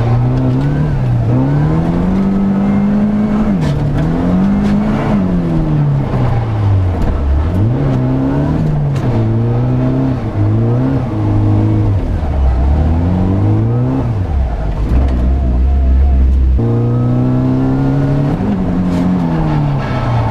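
Nissan SR20DET turbocharged four-cylinder engine in an S13 drift car, heard from inside the cabin, revving up and down repeatedly under hard driving. A few seconds before the end it settles to a low steady note for about two seconds, then jumps abruptly back to high revs.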